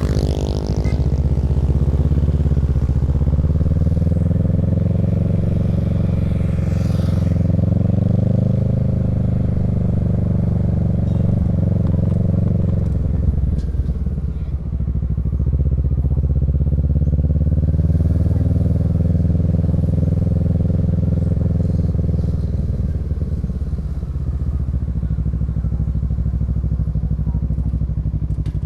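Kawasaki Z650's parallel-twin engine through a Yoshimura Alpha exhaust, running under way with the revs rising and falling. The revs drop away about halfway through and again about three quarters of the way in, then climb back.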